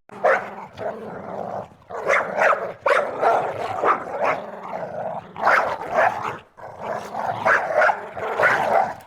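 A dog barking repeatedly, in runs of short barks with brief pauses between them.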